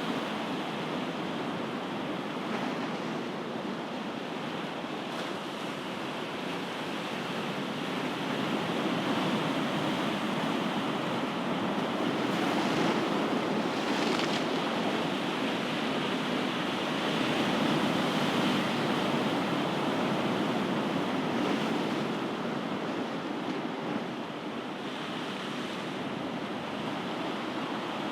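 Ocean surf: waves washing in as a steady rushing noise, swelling slowly louder and easing off again twice over the stretch.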